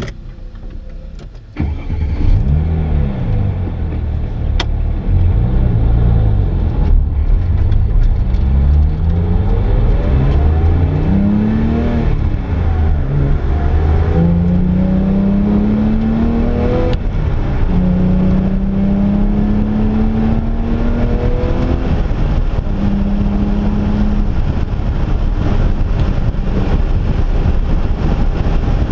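Porsche 997.1 GT3's flat-six engine heard from inside the cabin, pulling away and accelerating hard through several gears. Each rising engine note drops back at an upshift, and the rises grow longer in the higher gears before it settles into a steady cruise with road and wind noise.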